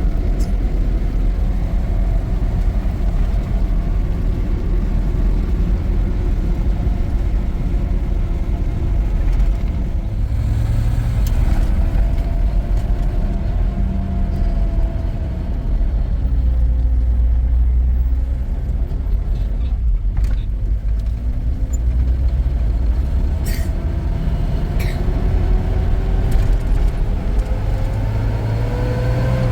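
A motor vehicle's engine running with a heavy low rumble, its pitch rising and falling with engine speed and climbing near the end.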